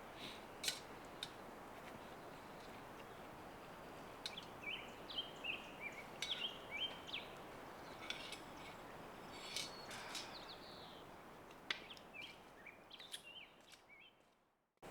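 Forest birds chirping in short, stepping phrases over a steady background hiss, with a few sharp clicks. The sound fades out just before the end.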